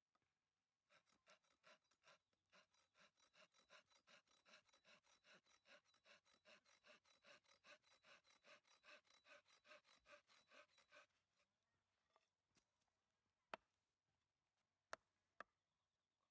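Hand saw cutting through a piece of firewood in quick back-and-forth strokes, about four a second, for about ten seconds before it stops. Three sharp knocks follow near the end.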